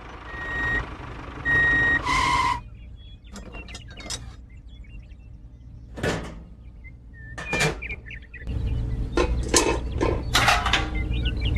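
Electronic beeps from a toy construction vehicle: two short thin beeps, then a louder two-tone beep about two seconds in. Scattered clicks and knocks of small parts follow, and about eight seconds in a low steady hum comes up, with more knocks.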